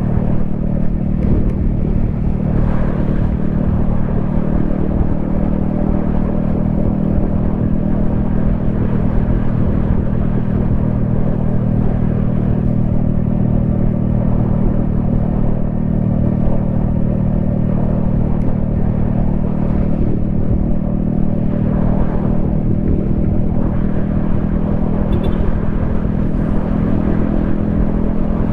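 Yamaha XSR155's single-cylinder engine and exhaust running at a steady cruise, heard from the rider's helmet. The engine pitch holds nearly constant, with no big revs or gear changes.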